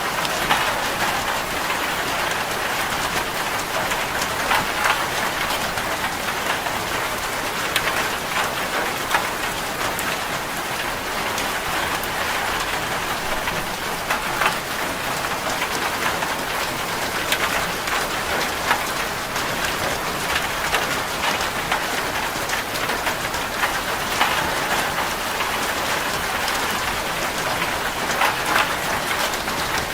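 Rain falling steadily on a corrugated zinc roof: a dense, even patter of drops with many small sharp hits on the metal.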